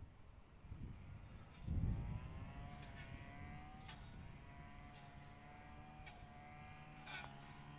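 Distant jet engine whine that rises in pitch and then holds steady. Short, sharp ticks come about once a second over it.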